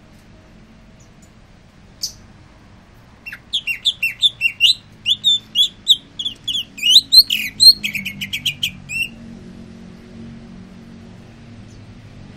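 Green leafbird (cucak ijo) singing: a single sharp call, then about six seconds of rapid, varied, sweeping whistled notes that end in a fast run of repeated notes.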